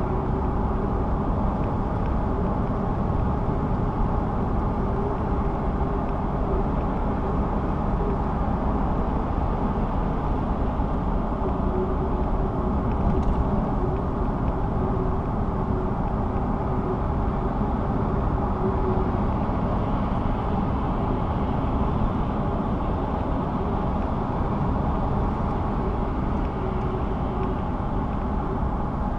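Steady road and engine noise of a car driving at traffic speed, heard from inside the cabin, with a constant low drone.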